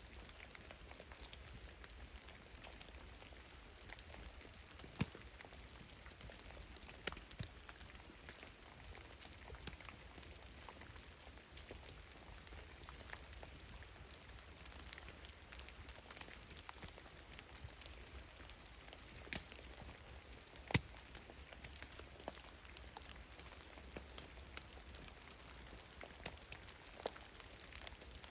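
Meltwater drops falling from heavily melting snow in a forest: irregular soft drips, with a handful of louder, sharper ones scattered through, over a faint steady hiss.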